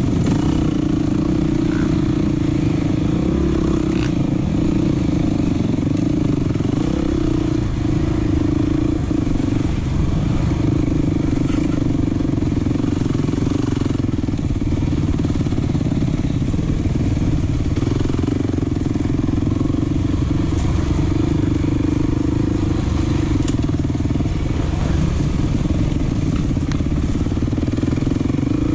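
Dirt bike engine running at a steady, even pitch, held at a constant speed, with a few faint clicks over it.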